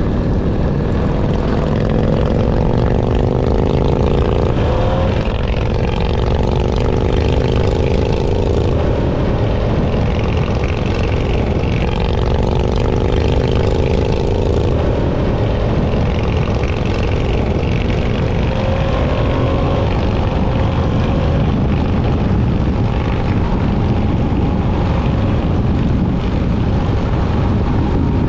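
Motorcycle engine running under way, over a heavy low rumble. Its pitch climbs slowly, drops about five seconds in, and climbs again.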